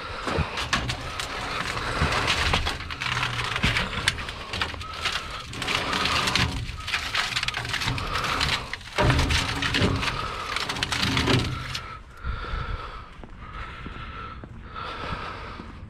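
Clattering, knocking and scraping as scrap is handled and shifted. About three quarters of the way in this stops and a short electronic beep repeats steadily, a little more than once a second.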